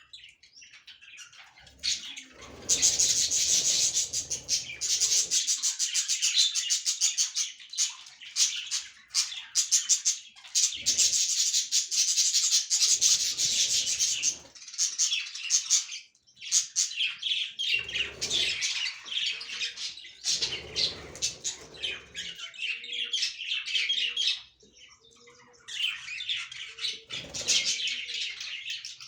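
Budgerigars chattering and warbling: a dense stream of rapid chirps, with brief lulls about halfway and again near the end.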